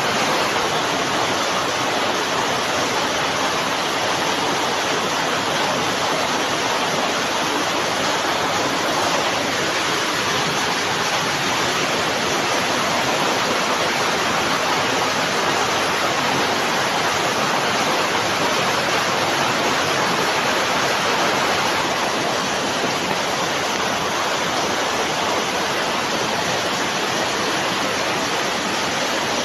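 Steady, dense rain, an even continuous hiss with no separate drops or other events standing out.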